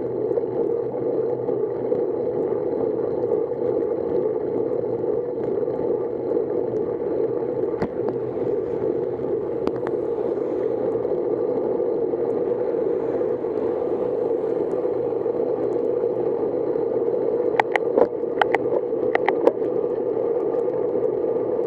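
Steady rushing noise of a bicycle ride on a wet road, wind and tyre hiss, with a handful of sharp clicks near the end.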